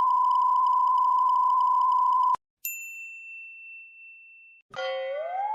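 Cartoon sound effects: a loud, steady censor-style beep held for about two seconds, then a high ding that fades away, then a pitched sliding tone rising near the end.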